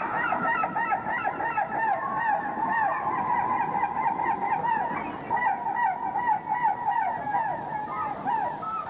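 A flock of birds calling without a break, many short rising-and-falling calls overlapping into a dense chorus.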